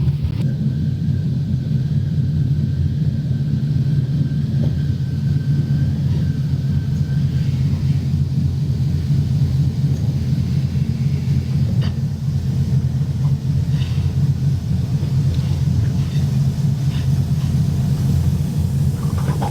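Steady low rumble of a moving passenger train, heard from inside the carriage, with a faint thin whine over it for the first several seconds and a few faint clicks later on.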